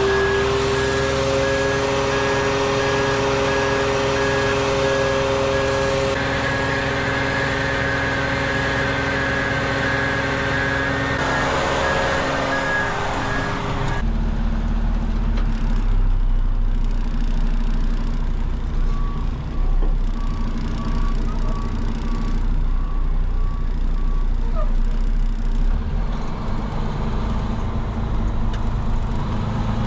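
Truck engine running steadily with a repeating high-pitched beep, typical of a reversing alarm. Partway through the sound changes abruptly to a lower rumble of driving, with a fainter beep repeating for a few seconds.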